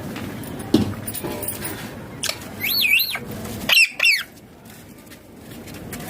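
Indian ringneck parakeet calling: two short warbling whistles a second apart, each wavering up and down in pitch, after a sharp knock near the start.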